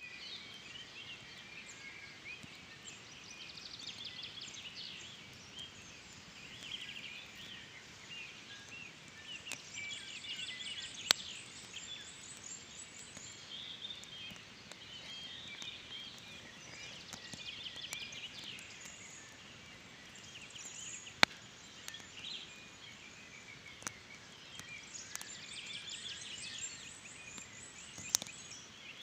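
Wood fire burning in a campfire frame, with a few sharp, loud pops from the burning wood, about ten seconds apart. Birds chirp and trill without a break behind it.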